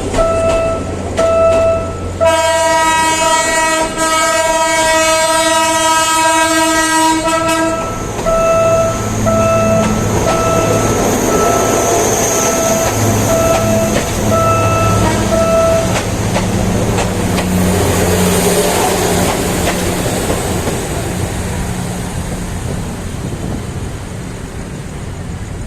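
A Philippine National Railways train's horn sounds one long chord lasting about five and a half seconds, over a warning signal that beeps about twice a second. The train then passes with a diesel engine hum and rail noise that fade away near the end.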